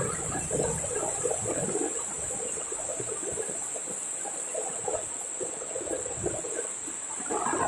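Heavy rain pouring down, with water running and splashing under a steady high hiss.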